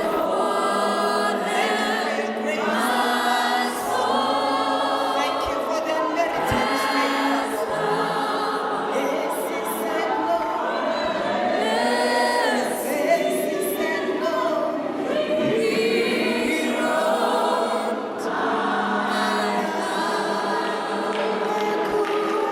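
A choir singing a gospel worship song, many voices together.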